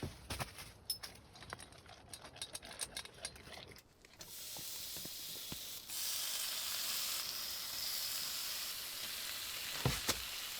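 A dog crunching its kibble, a run of small sharp clicks, then from about four seconds in a steady sizzle of food frying in a pan.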